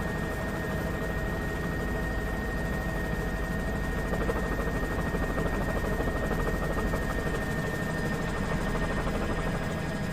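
Helicopter running steadily: a fast low rotor beat under a steady high whine.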